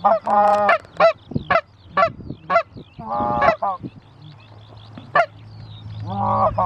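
Canada geese honking: a run of repeated two-note honks and short sharp clucks, with three longer drawn-out honks near the start, about three seconds in and near the end.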